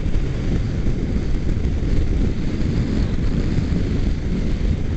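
Steady wind rush buffeting the microphone of a motorcycle ridden at freeway speed, with road and traffic noise beneath it.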